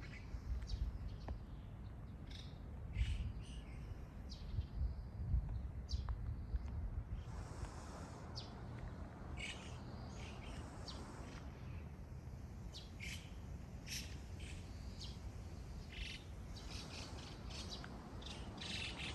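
Birds chirping, with short calls scattered throughout, over a low steady rumble.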